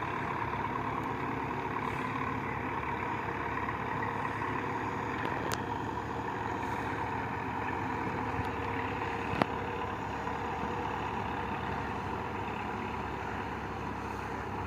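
Belarus 510 tractor's diesel engine running steadily under load while it hauls a loaded trolley out of a river bed. A single sharp click is heard about nine seconds in.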